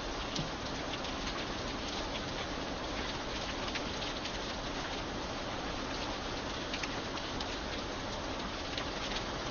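Steady rain, an even hiss with many single drops ticking sharply over it.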